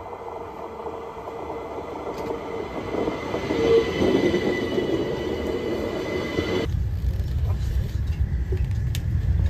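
A train pulling in, with a squeal in several steady high tones that grows louder, then a sudden change about two-thirds of the way through to a low, steady rumble.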